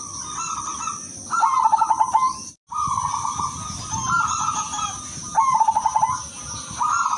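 Zebra dove (perkutut) cooing: repeated calls, each opening with a quick stutter of short notes and ending on a held coo, about one every second and a half. The sound cuts out completely for a moment near the middle.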